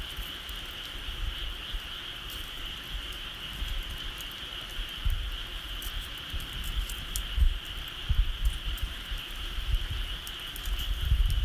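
Bonfire crackling with scattered faint pops, over a steady high-pitched insect chorus, with an uneven low rumble underneath.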